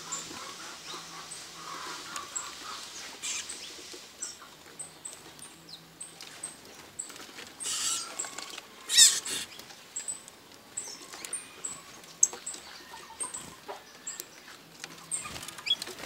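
Birds giving short, high chirps every second or so, with a few louder scratchy bursts; the loudest comes about nine seconds in.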